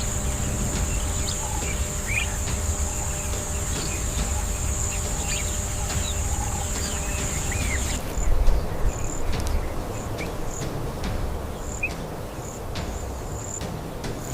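Outdoor nature ambience: a high, steady insect buzz that breaks into short pulses about eight seconds in, with scattered bird chirps over a constant low rumble.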